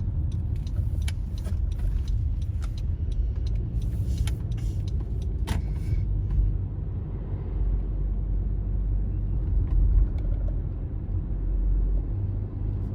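Car driving along a road: a steady low rumble, with scattered light clicks during the first half.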